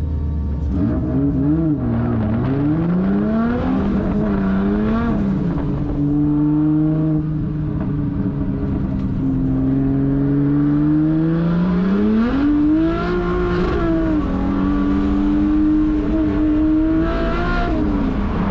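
Toyota 1.5JZ straight-six engine of a drift car under hard driving, its revs climbing and falling repeatedly and held steady at high revs for a few seconds at a time, dropping off near the end.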